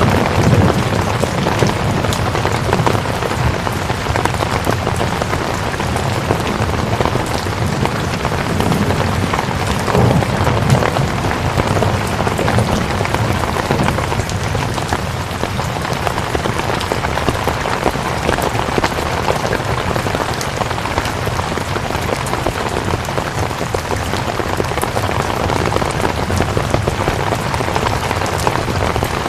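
Steady rain falling: a constant hiss with many small drops pattering.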